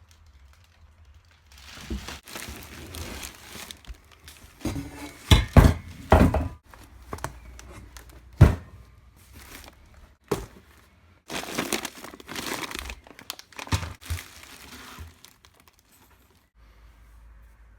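Packaging being unboxed: plastic wrapping and cardboard crinkling and tearing, with several sharp knocks as exhaust parts are handled and set down.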